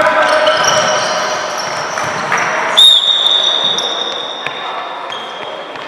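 Basketball game sounds: sneakers squeaking on the court floor and a ball bouncing, with a sudden loud high-pitched tone about halfway through that holds for about two seconds.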